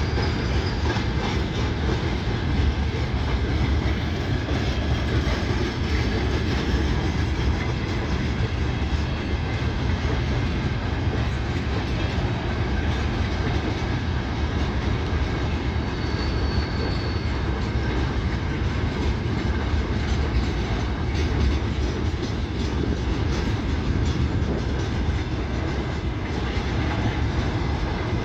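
A train running on rails: steady wheel-on-rail noise, heaviest in the low end, with a brief faint high whine about sixteen seconds in.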